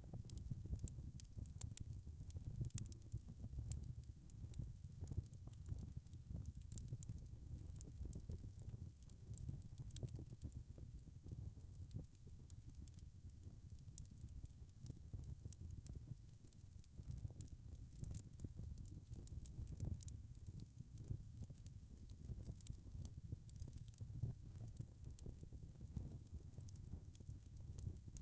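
Wood fire crackling steadily: frequent small pops and snaps over a low rumble of burning.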